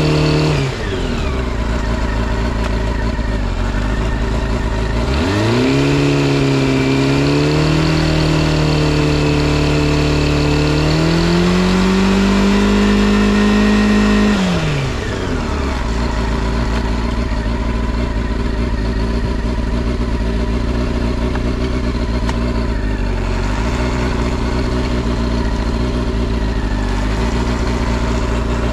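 Honda CB400SF VTEC Spec1's inline-four through a WR's aftermarket exhaust, blipped and held at raised revs. It drops to idle within the first second, is revved and held twice between about 5 and 14 seconds (higher the second time), then settles back to a steady idle. The seller presents it as running well with no abnormal noises.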